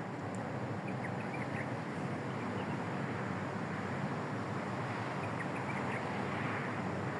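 Steady outdoor background noise, even and unbroken, with a few faint short chirps about a second in and again near six seconds.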